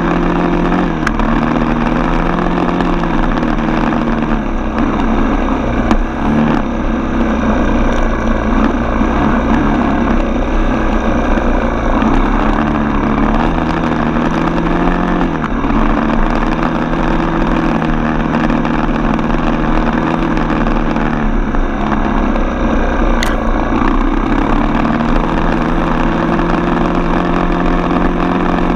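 Single-cylinder four-stroke dirt bike engine running under way, its pitch rising and falling every few seconds as the throttle opens and closes.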